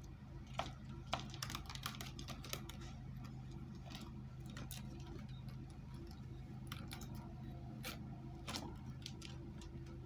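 Irregular light clicks and taps as a kitten plays with a ball, densest in the first few seconds, over a steady low hum.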